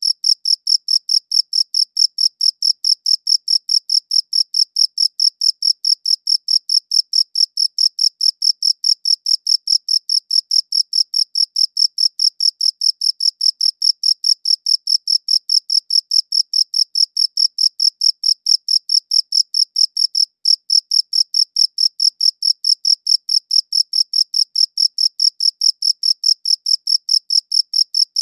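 A cricket chirping in a steady, even, high-pitched rhythm, several chirps a second, with one brief break about two-thirds of the way through.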